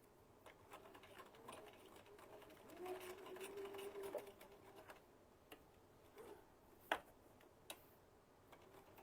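Electric sewing machine stitching slowly in short spurts, stopping and starting to work around curves, with a faint steady motor hum for about a second near the middle. A few light clicks follow later on.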